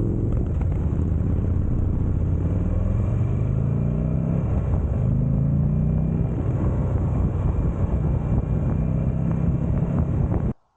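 Buell Firebolt XB12R's V-twin engine heard from the moving motorcycle, with wind rushing over the microphone. The engine pitch climbs, drops back at a gear change about five seconds in, and climbs again as the bike accelerates. The sound cuts off suddenly near the end.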